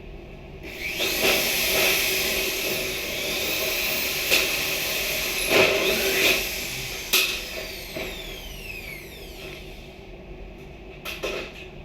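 A small electric power tool runs with a hissing whir for several seconds, with a few sharp knocks. Then its motor winds down with a falling whine.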